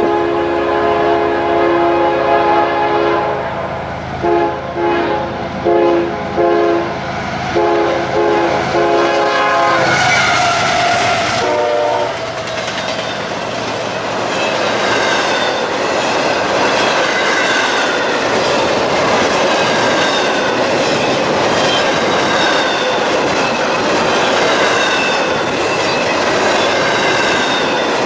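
A train horn sounds one long blast, then several shorter blasts, for about the first ten seconds. The train then passes close, and its tone falls in pitch. The cars rolling by make a steady rush of wheels on rail, with thin wavering squeals above it.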